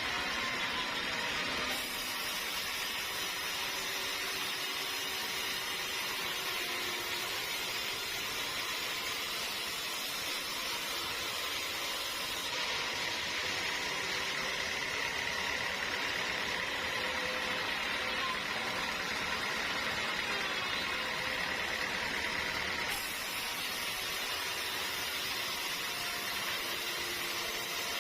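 Sawmill machinery running steadily, a continuous mechanical hiss and hum with a faint steady whine, changing abruptly twice where the footage is cut.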